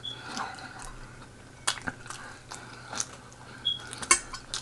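A person chewing beef tenderloin close to the microphone: soft, wet mouth clicks and smacks, scattered irregularly.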